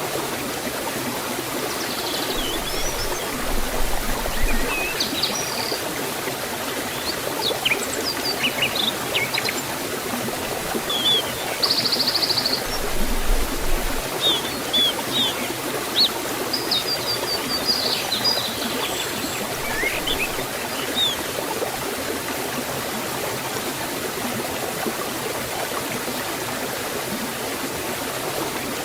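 Water rushing steadily over a forest waterfall, a constant even hiss. Birds chirp and trill in short high notes over it through the first two-thirds, then fall silent.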